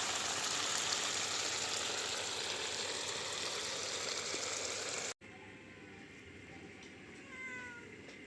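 A steady rushing noise that cuts off abruptly about five seconds in; then a cat meows once, a short falling call, about two seconds later.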